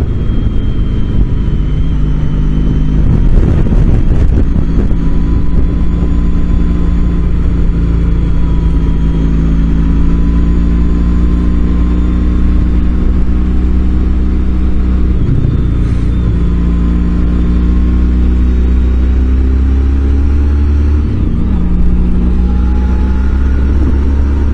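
Motorcycle engine running under way, its pitch climbing slowly, with two brief breaks about 15 and 21 seconds in.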